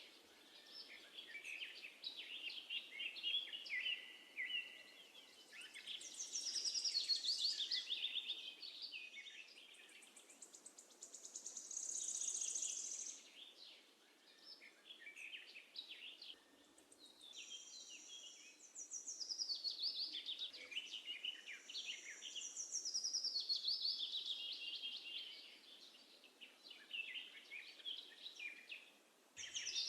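Sparrows chirping and singing in a string of quick, high phrases, each a few seconds long, with short pauses between them.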